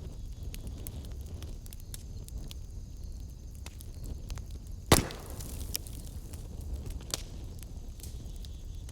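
Wood fire burning in a fireplace: a steady low rumble with scattered crackles and one loud pop about five seconds in.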